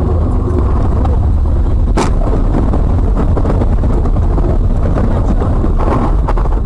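A car driving, a steady low engine and road rumble, with one sharp knock about two seconds in.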